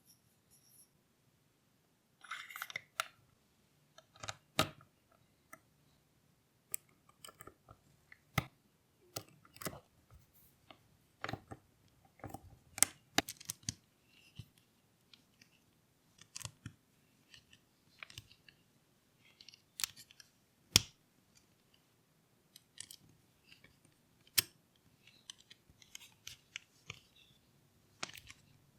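Small plastic parts of a transparent model engine kit being handled and fitted together: irregular sharp clicks and snaps, a few much louder than the rest, with faint rustling between.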